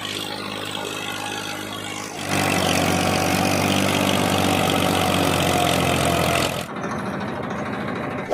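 Massey Ferguson 1035 DI tractor's three-cylinder diesel engine running steadily. It gets much louder about two seconds in and drops back about two seconds before the end. A sharp click comes at the very end.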